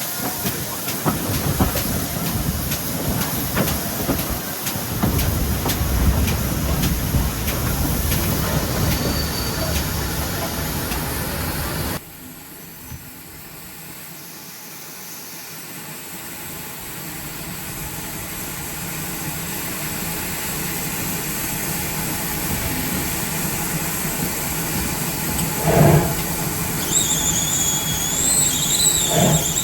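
Pannier tank steam locomotive 7754 running on the line, a steady hissing, rattling din of steam and wheels on rails. About halfway through it drops suddenly to a much quieter running sound that slowly grows louder. Near the end there are a couple of knocks and a high, wavering wheel squeal.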